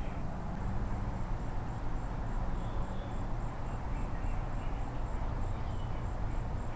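Insects chirping in a steady, evenly pulsed high trill over a low steady hum.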